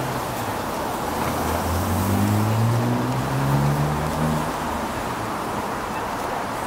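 A car engine accelerating, its pitch rising for about two seconds, over a steady rush of street noise.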